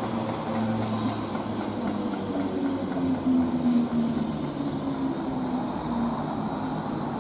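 ScotRail electric multiple unit moving off along the platform and gathering speed, with the steady hum and whine of its traction motors and the rumble of its wheels. Two short hisses, one about halfway and one near the end.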